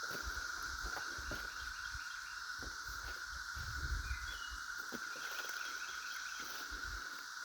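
Cicada chorus: a steady, unbroken high drone. Scattered low bumps and rustles sit underneath it.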